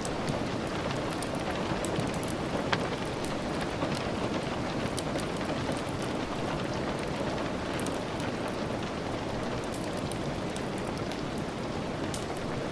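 Steady rain pattering, with scattered sharp ticks throughout and one louder tick about three seconds in.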